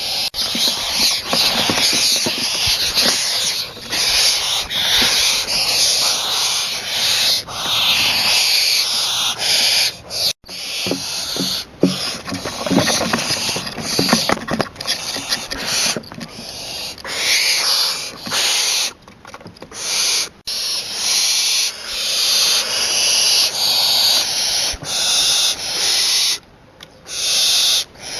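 Barn owl giving long rasping hisses, one after another with short breaks between them.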